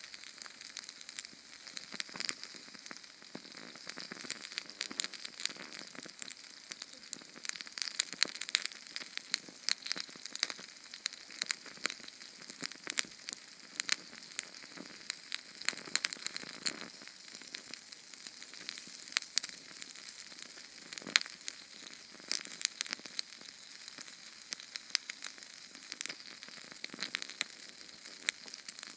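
Small Sterno canned-fuel flame burning with a steady hiss and many quick, irregular crackles.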